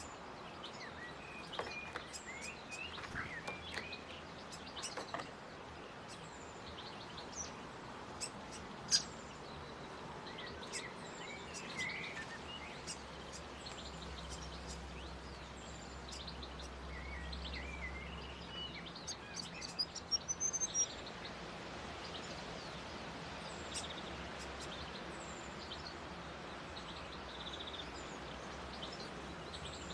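Small birds calling: scattered high chirps and short twittering phrases over a steady outdoor hiss, with a quick rising run of notes about twenty seconds in.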